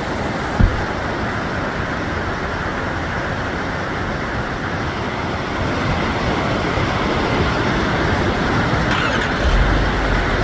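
Long train rumbling steadily as it runs past, with a short low bump about half a second in and a deeper rumble coming in near the end.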